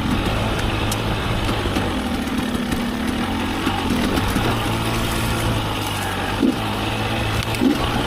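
KTM dirt bike engine running under way, its revs rising and falling with the throttle, with two short, sharper rev peaks near the end.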